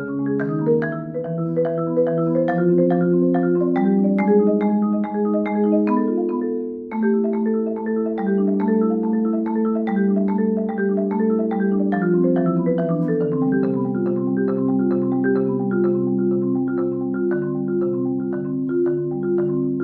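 Marimba solo played with mallets: a steady flow of struck notes and chords in several voices, some notes held as rolls, with a short break in the phrase about seven seconds in.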